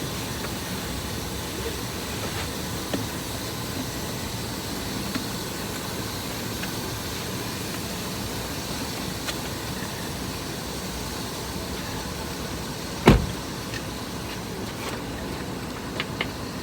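Car's air conditioning blowing steadily, with a few light knocks and one sharp thump about thirteen seconds in.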